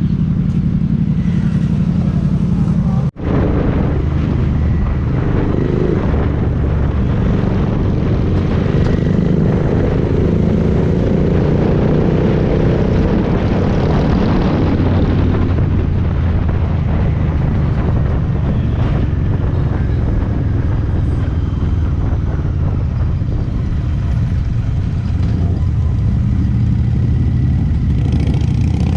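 Motorcycle engine and wind noise on the move during a group ride, steady and loud, with the engine pitch rising as it accelerates partway through. The sound cuts out for an instant about three seconds in.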